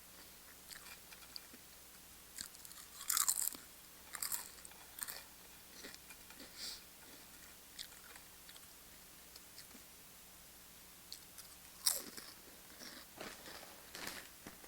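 Tortilla chips being bitten and chewed with loud crunches, in irregular clusters: a burst about three seconds in, another about a second later, and another near the end, with quieter chewing between.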